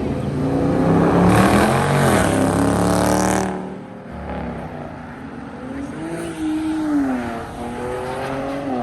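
Car engine revving hard as a car accelerates away, loud for the first few seconds with a rising and falling engine note, then cutting off sharply. Afterwards a quieter engine revs up and down.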